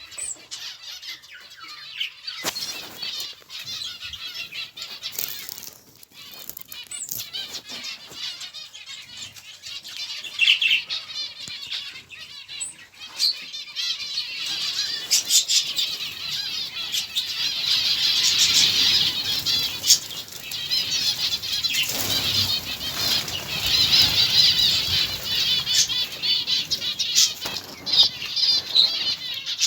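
Many small birds chirping and twittering together, with wings fluttering and short sharp clicks throughout. The chatter grows busier about halfway through.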